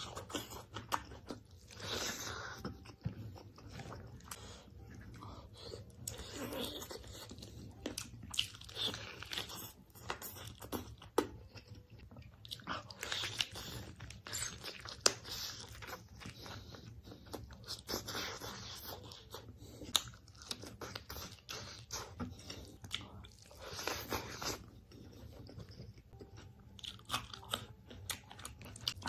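Food being bitten and chewed close to the microphone: repeated crisp crunches and sharp clicks, with longer spells of crunching a few seconds apart.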